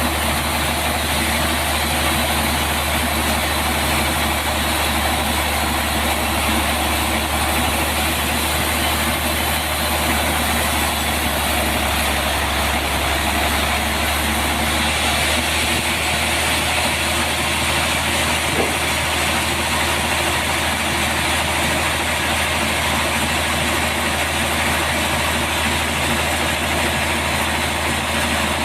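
Band sawmill running steadily while sawing a trembesi log into planks: a constant low motor hum under an even, unbroken whir.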